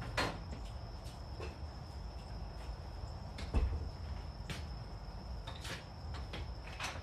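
Scattered knocks and clunks of items being picked up and set down, about one every second or so, over a steady low hum and a thin, steady high-pitched tone.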